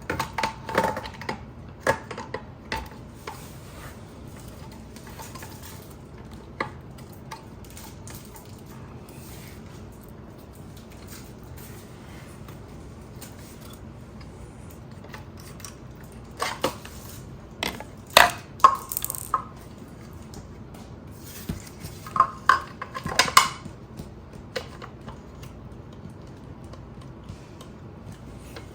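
Clicks, knocks and light clatter of hard plastic and metal parts being handled and test-fitted, in short bursts near the start, about two-thirds of the way in, and again a few seconds later, with quiet between.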